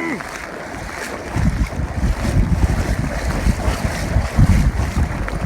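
Strong wind buffeting a phone's microphone, a gusty low rumble that grows louder about a second in, over the steady hiss of rain.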